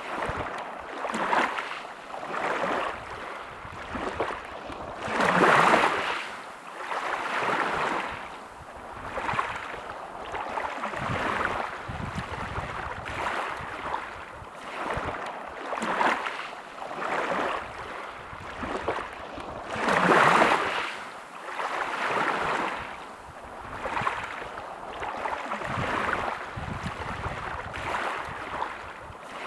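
Small sea waves washing onto a beach, a rush of surf rising and falling every second or two, with two bigger waves breaking about five seconds in and again about twenty seconds in.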